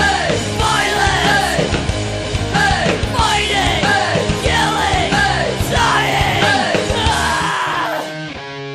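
Loud punk-style rock music with yelled vocals over a full band. About eight seconds in, the vocals stop and the music drops to a quieter held chord.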